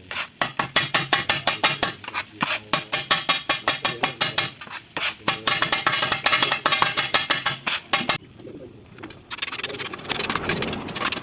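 Two metal spatulas chopping chicken kothu parotta on a flat iron griddle: rapid clanging strikes, about six a second. The strikes stop for about a second near the end, and a steadier noise without strikes follows.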